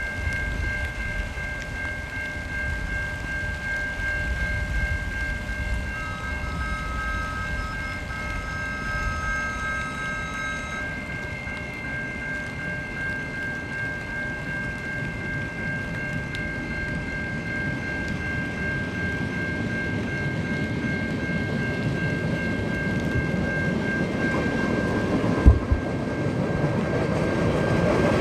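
Freight train approaching on the line, its low rumble growing steadily louder toward the end, with a single sharp thump near the end. Steady high-pitched ringing tones sound throughout.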